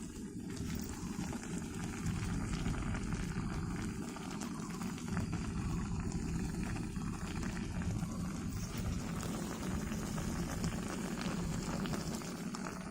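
A pot of water boiling over a cooking fire, a steady bubbling noise; it is the soup base being brought to the boil around fried eggs for instant noodles.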